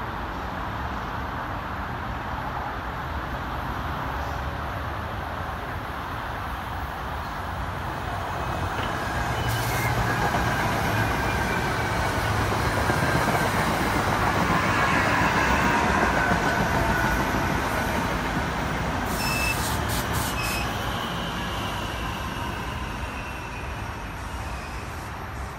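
Commuter train passing at speed on the near track, its wheels running on the rails. The sound swells to a peak about midway and then eases off, with a faint whine that slowly falls in pitch and a few sharp clicks near the end.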